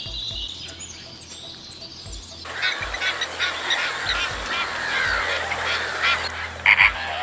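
A bird's whistled call gliding in pitch, then from about two and a half seconds in a dense chorus of many overlapping calls from a flock of waterfowl.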